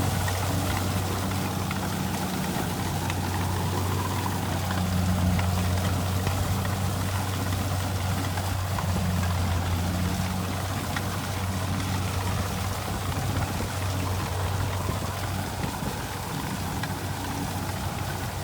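Kubota rice combine harvester's diesel engine running steadily, a low, even hum that holds for the whole stretch.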